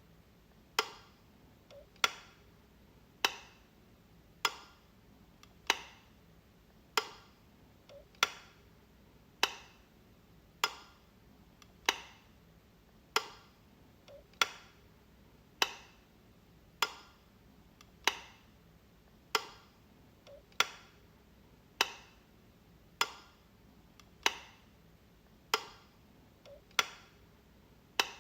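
Light switch clicking over and over at an even pace, one sharp click about every second and a quarter.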